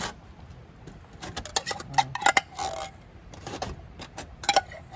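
A spoon clinking and scraping inside an open can of condensed mushroom soup as the soup is scooped out, in irregular clusters of sharp knocks.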